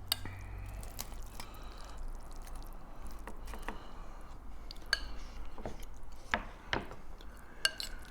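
A spoon scooping and stirring in a bowl of picadillo stew: scattered light clinks and taps against the dish, a few of them ringing briefly, with soft wet squishing of the food.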